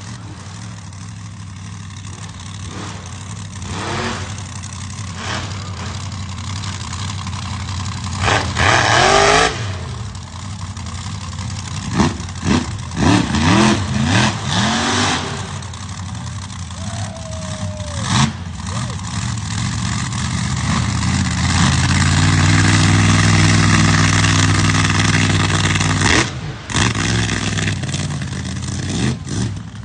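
Monster truck engine running loudly, with repeated bursts of revving and a long sustained surge of power about two-thirds of the way through.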